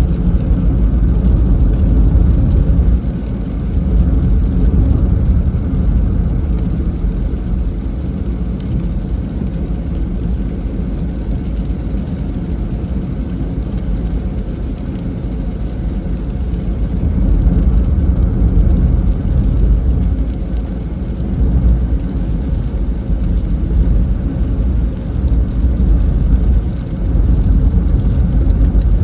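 Car driving: a steady low rumble of engine and tyres on the road that swells and eases a little.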